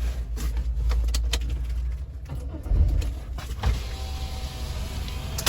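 Car sounds heard from inside the cabin: a low rumble with scattered knocks and a heavier thump about three seconds in, then a steady hiss setting in near four seconds.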